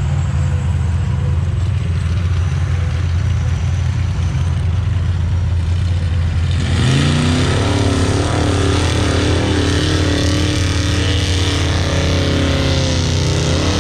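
Off-road truck engine running with a deep low rumble, then revving up about halfway through and held at high revs, rising again near the end.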